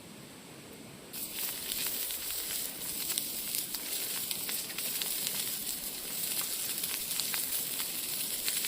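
Food sizzling and spitting on a hot iron griddle plate over a wood fire. It is a steady hiss that gets louder about a second in and is then full of small crackling pops.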